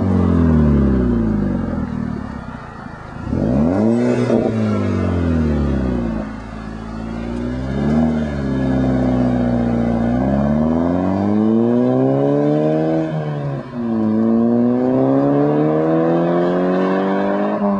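VW Mk5 GTI's turbocharged four-cylinder engine through a 3-inch turbo-back exhaust, revving repeatedly. There is a quick sharp rev about three seconds in, then two long climbs in pitch separated by a brief dip, each falling away as the throttle closes.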